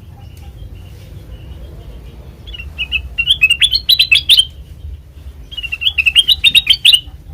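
A kutilang emas, a bulbul, singing two quick phrases of bright chirping notes, the first about two and a half seconds in and the second near the end, over a steady low hum.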